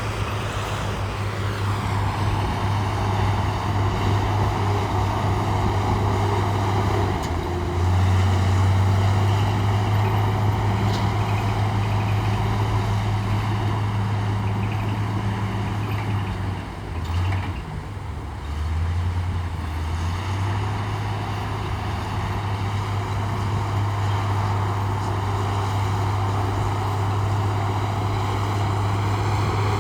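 Heavy diesel engine of earthmoving machinery running with a deep, steady drone. It grows louder about a quarter of the way in, dips briefly near the middle, then settles back to a steady run.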